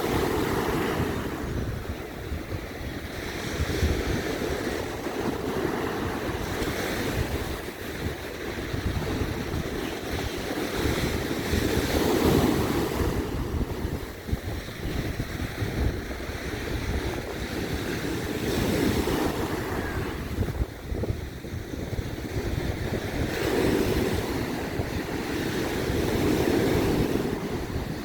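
Sea surf breaking and washing up a beach, swelling and easing every several seconds, with wind rumbling on the microphone.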